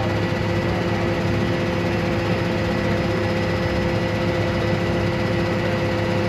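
Vehicle engine running steadily at an even pitch, with a constant low rumble.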